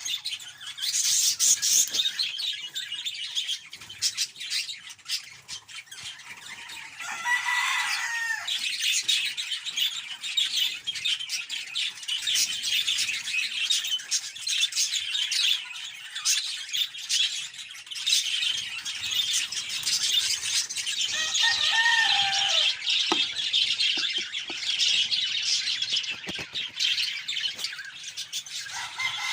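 Budgie chicks in the nest giving continuous high-pitched, raspy chattering. Twice, a lower gliding call rises out of it, about seven seconds in and again about twenty-one seconds in.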